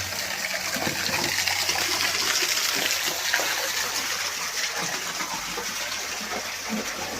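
Small waterfall splashing steadily: a constant rush of falling water.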